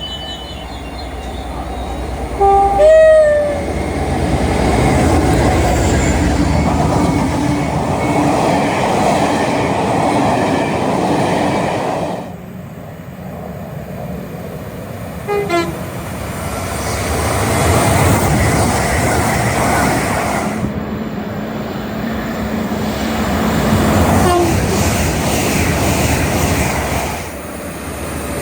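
Trains passing at speed with a rushing roar of wheels on rails, sounding their horns. The loudest is a short horn blast about three seconds in. A brief horn comes near the middle, a second train rushes past, and another short horn sounds about three-quarters of the way through.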